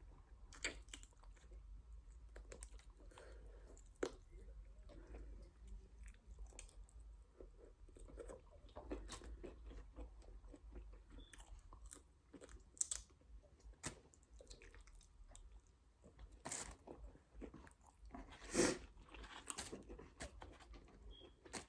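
A person chewing and biting food, with irregular crunches and smacking mouth sounds; a louder burst of crunching comes near the end.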